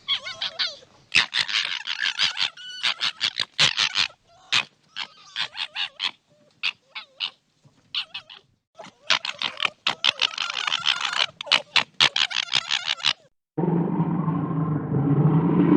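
An animal's rapid, chattering calls: short sharp notes in quick bursts. About 13 seconds in, this cuts abruptly to a low, steady, throaty rumble from a different animal.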